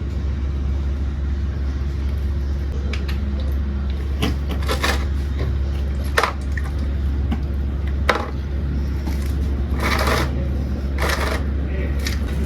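A steady low hum underlies hand work at the motorcycle's oil drain plug. A few sharp metallic clicks and short scraping, rustling bursts come as the plug is taken out.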